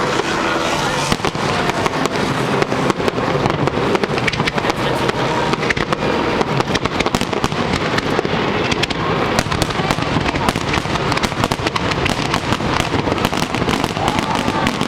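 Fireworks display: a continuous barrage of many rapid, overlapping bangs and crackles, with no pause.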